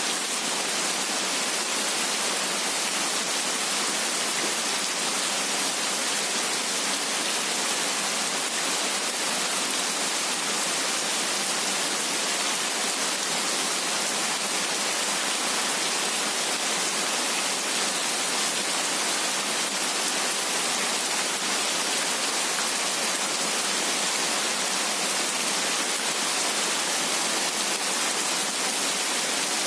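Heavy rain falling steadily: an even, dense hiss with no thunder and no separate drops standing out.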